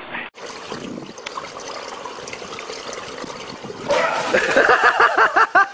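Water splashing and trickling steadily. About four seconds in, a man plunges into a swimming pool with a loud splash, and a voice breaks into quick repeated laughter.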